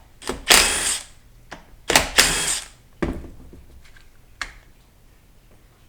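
Two short bursts, each about half a second, from a hand-held power tool working on transmission fasteners, followed by a few light clicks of metal parts being handled.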